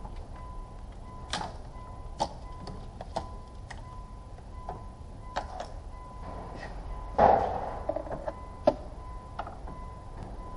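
Scattered clicks and knocks of hand tools and parts on metal, with one louder clank about seven seconds in, over a faint steady high tone.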